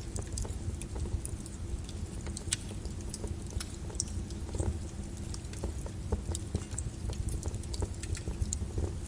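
Lava flow: a steady low rumble with irregular sharp crackles and clicks scattered throughout.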